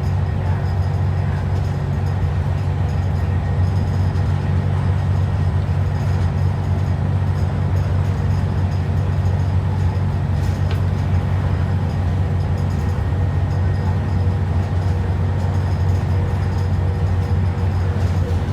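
ADL Enviro 400 double-decker bus engine running with an even, low drone and a few steady tones above it, heard from inside the bus. There is one faint tick about ten and a half seconds in.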